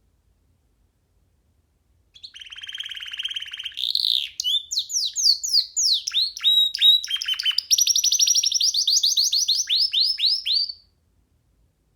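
Young domestic canary singing one unbroken song of rapid trills and quick downward-sweeping notes. It starts about two seconds in and cuts off suddenly near the end.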